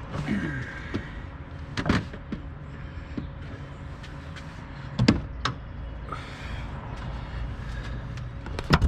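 Sharp clacks and knocks of engine air box and intake parts being handled and worked loose by hand, three main knocks spread over several seconds with the last a quick double, over a steady low hum.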